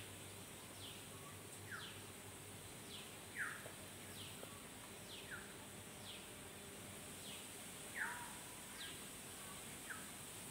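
A bird giving short, down-slurred whistled calls over and over, about one a second, faint against a steady background hiss.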